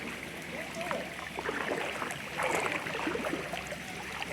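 Floodwater rushing steadily, with faint voices of people mixed in.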